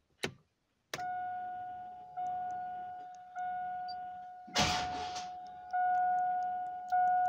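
Chevrolet Silverado's warning chime dinging, one steady pitch struck about every 1.2 seconds, each ding fading until the next. A short noisy scrape cuts in about halfway through, with a few small clicks.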